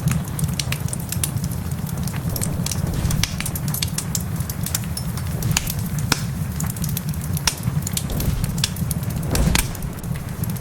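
Fireplace crackling: irregular sharp pops and snaps over a steady low rumble, with heavy rain in the background.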